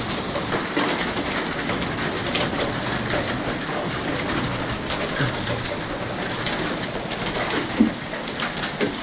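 Steady rain falling on hard outdoor surfaces, with scattered sharper drop taps and one louder knock a little before the end.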